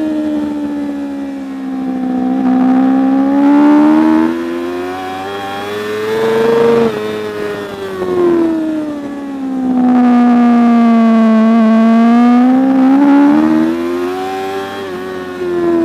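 Superbike racing motorcycle engine running hard, its pitch rising and falling as the revs change. There is a sudden drop in pitch about seven seconds in, then the revs sink and climb again.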